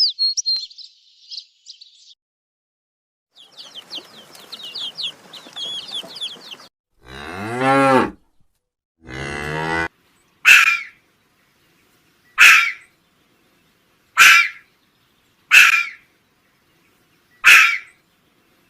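A sequence of cut-together animal calls: high chirping, then a single low drawn-out call, then a run of short, loud calls repeated about every two seconds.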